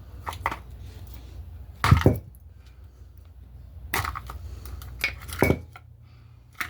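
A small wooden bird house being smashed apart: a handful of sharp knocks and cracks of thin wood, the loudest about two seconds in, with more around four and five and a half seconds.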